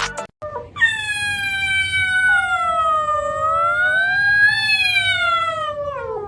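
A cat's long drawn-out yowl: one unbroken call of about six seconds that dips in pitch, rises again, and slides down at the end.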